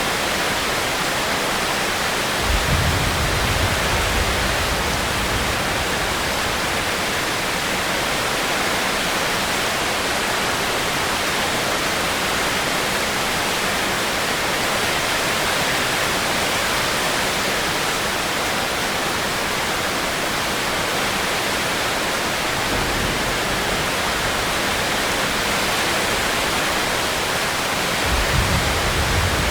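Steady heavy rain, an even hiss. A low rumble swells about two and a half seconds in and again near the end.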